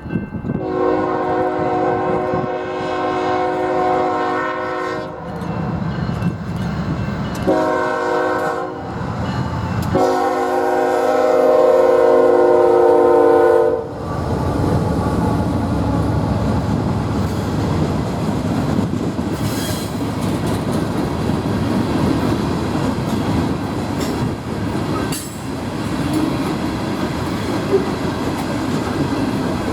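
Norfolk Southern diesel locomotive horn sounding for a grade crossing: a long blast ending about five seconds in, a short blast, then a loud long blast. After that the freight train rolls past with steady wheel and rail noise.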